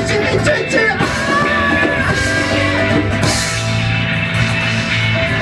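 A rock band playing live, a full, loud mix of instruments with a steady bass.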